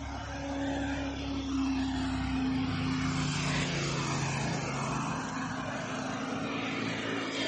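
Piaggio Ape auto-rickshaw's single-cylinder engine running on the move over a steady hiss. The engine note drops in pitch about three seconds in.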